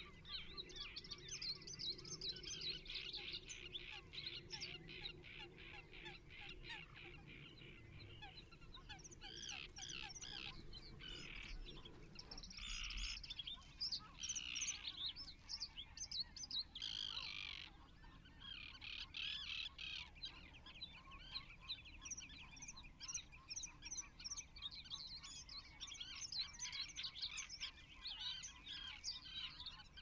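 Birds chirping and calling continuously in dense runs of short, high notes, with a few louder calls standing out in the middle.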